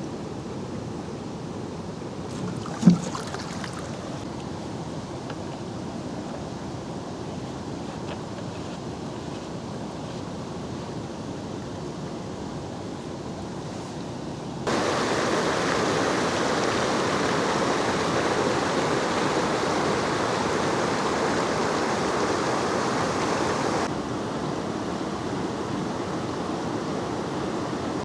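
Steady rain, an even rushing hiss that abruptly turns louder about halfway through and drops back somewhat near the end. One short sharp knock about three seconds in.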